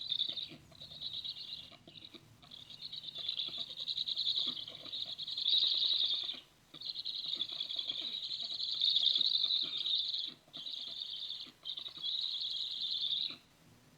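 A bird's high, fast trilling call in long phrases of several seconds with short breaks, stopping near the end. Underneath it, raindrops patter and tick close to the microphone.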